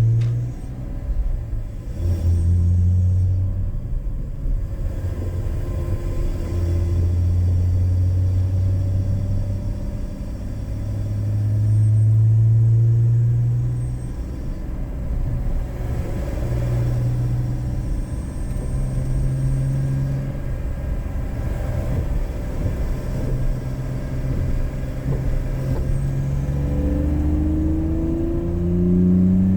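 BMW E46 inline-six engine pulling through an aftermarket K&N cold-air intake during ordinary driving. The low engine note rises and drops in steps as the car accelerates and eases off, and rises again near the end.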